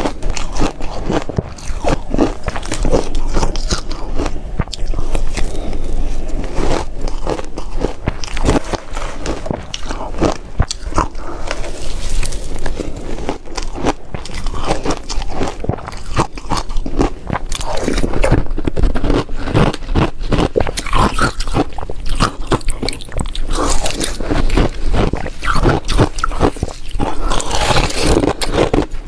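Ice being bitten and chewed close to the microphone: a loud, continuous run of sharp crunches.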